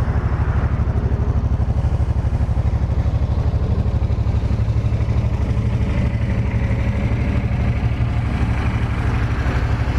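2005 Suzuki C50 Boulevard's fuel-injected V-twin idling steadily on its factory exhaust, an even, rapid pulse that runs really quiet.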